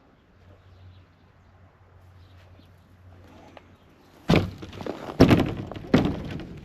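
Low steady hum with faint scattered sounds, then a run of loud thumps and crunches starting about four seconds in, roughly one a second.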